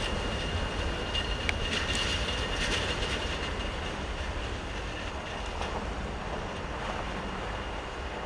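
Coal hopper cars of a freight train rolling past, steel wheels on the rails giving a steady rumble with a thin high squeal running through it. A cluster of sharp clicks comes about two seconds in.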